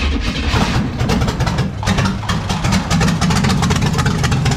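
NASCAR small-block V8 catching and running roughly with uneven, stumbling firing, then beginning to die near the end as it stalls. The owner puts the stalling down to inconsistent fuel delivery and a carburettor that needs cleaning.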